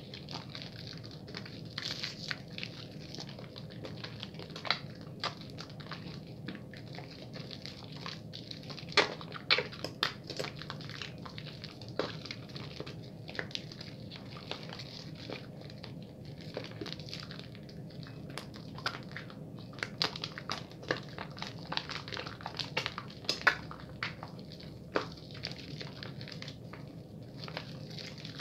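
A bar of soap being lathered quickly in wet hands: irregular wet squishing with many small sharp crackles and clicks, at a fast-ish pace.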